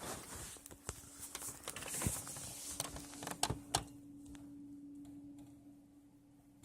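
Rustling and handling of a phone being moved about in bed, with several sharp clicks and taps in the first four seconds, over a steady low hum.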